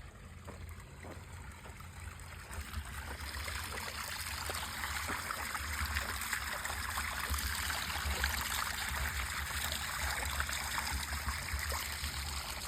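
Well water from a solar pump pouring out of a 2-inch overflow pipe and splashing into a pond. The rush builds over the first few seconds, then runs steadily, with a low steady rumble underneath.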